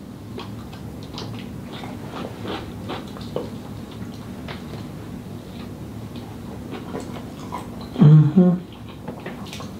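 Close-miked chewing of a mouthful of burger, with many small wet mouth clicks. A short voiced sound from the eater comes about eight seconds in.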